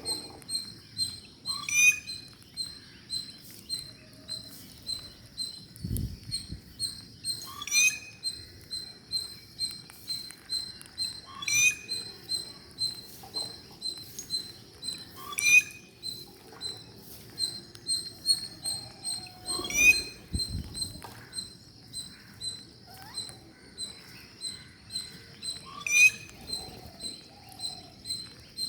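Bird chirping in a very regular pattern: quick high chirps about twice a second, with a sharper sweeping call about every four seconds and a couple of soft low thumps.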